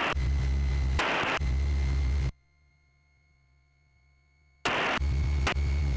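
Cessna 172S's four-cylinder Lycoming engine running at taxi power, a steady low drone with a faint high whine. It cuts out abruptly about two seconds in and returns about two seconds later.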